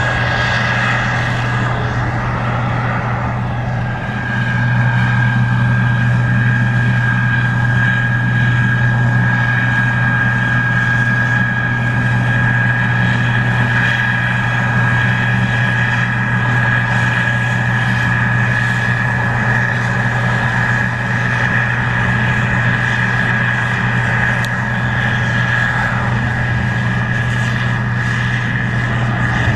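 Case IH 2144 Axial-Flow combine running steadily while harvesting corn: a continuous low engine drone with a steady high whine over it, a little louder from about four seconds in.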